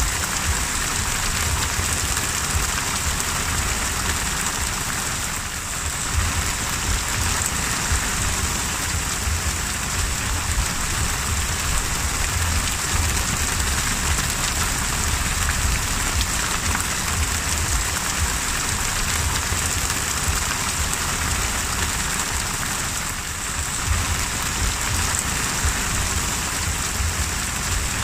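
Heavy rain falling onto the open sea: a dense, steady hiss of drops striking the water, with a low rumble underneath.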